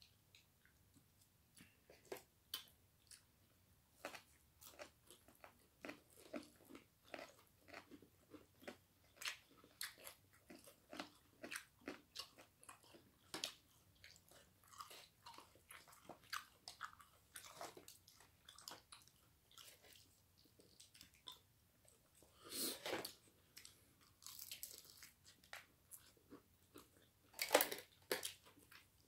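Eating sounds: crisp breaded fried chicken being bitten and chewed, a run of small crunches and crackles, with two louder crackles about three quarters of the way through and near the end.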